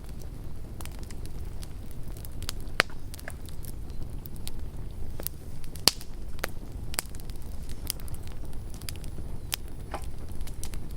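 Campfire burning, with irregular sharp crackles and pops over a steady low rumble. Two louder pops come about three and six seconds in.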